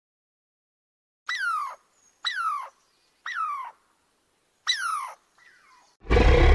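A squirrel calling: four short chirps, each falling in pitch, about a second apart, with a faint fifth after them. Near the end a loud, deep dinosaur roar sound effect cuts in.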